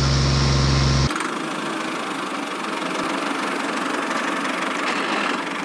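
Small engine running steadily with a rattly, knocking sound. A deep, steady hum under it cuts off sharply about a second in.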